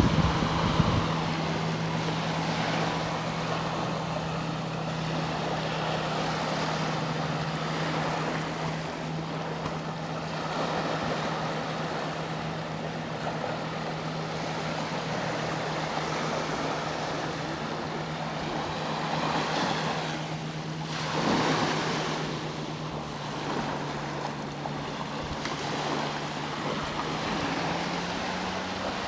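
Sea waves washing onto the shore in swells, one surging louder about two-thirds of the way through. Under them a boat engine gives a steady low drone, its pitch rising slightly near the end.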